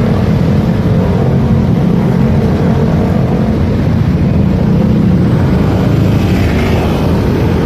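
Motorcycle engine running steadily while riding, its sound dense and low.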